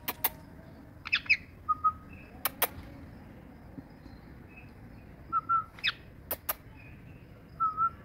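Short bird chirps and whistled notes, scattered and separate, with three pairs of sharp clicks.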